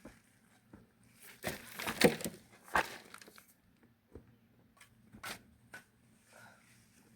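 Irregular crunching and scraping of loose murram soil being dug and moved, with the densest, loudest run about two seconds in and a few lighter scrapes after.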